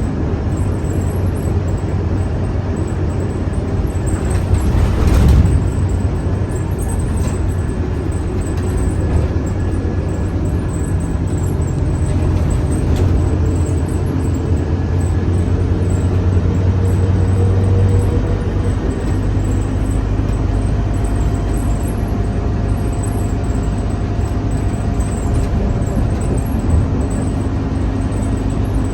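Scania K310UA city bus running under way, its engine pulling harder with a slowly rising whine for several seconds before easing off. A brief rushing swell about five seconds in.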